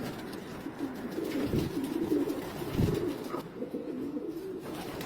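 Racing pigeons cooing, a wavering low call that goes on throughout, with two dull thumps about a second and a half and just under three seconds in.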